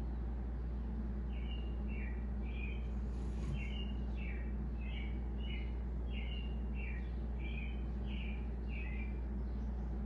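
A bird calling a short two-note chirp, a higher note dropping to a lower one, repeated about ten times at an even pace, over a steady low hum.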